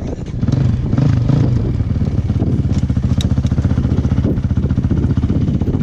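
Off-road motorcycle engine running at low revs with a fast, even pulse, picking up briefly about a second in, then settling back to a steady low-rev run.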